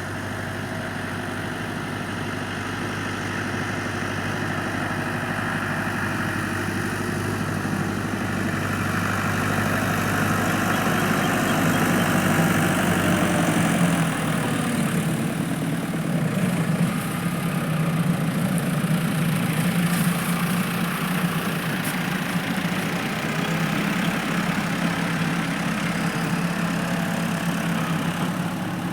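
Tractor engine running steadily; about halfway through its note rises to a higher, steady speed.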